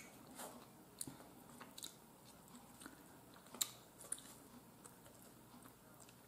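Faint chewing and mouth sounds of a person eating a pork roast, with a handful of short soft clicks, the sharpest about three and a half seconds in, and light scrapes of a fork on a paper plate.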